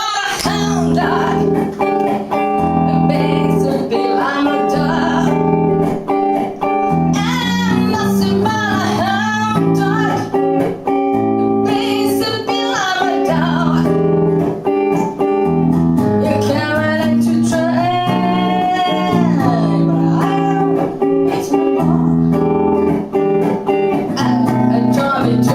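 A band playing a song: guitar chords held under a sung melody.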